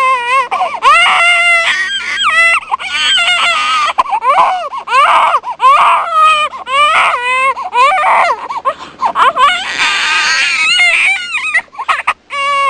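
Infant crying: a string of high, wavering wails one after another.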